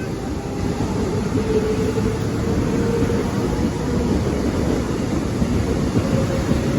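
Subway train running: a steady, loud low rumble with a faint, even motor whine.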